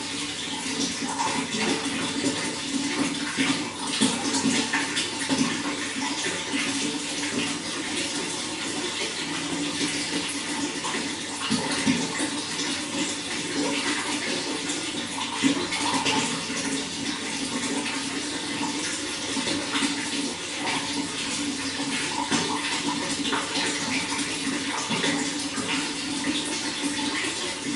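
Water running and splashing steadily, with small gurgles throughout.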